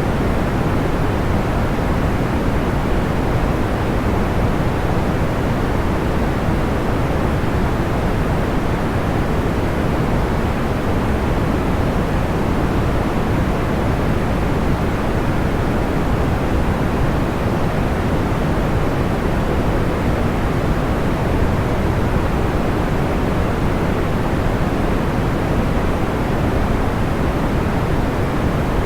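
Steady, even noise for sleep: a deep, soft hiss weighted toward the low end, with no crackles or changes.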